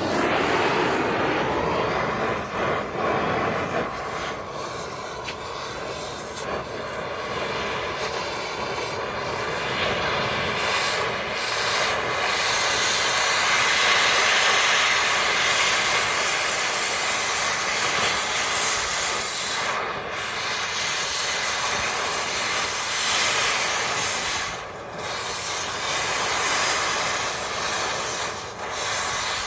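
Cutting torch hissing steadily as it burns through a seized ball joint, with a few brief dips in the flame noise.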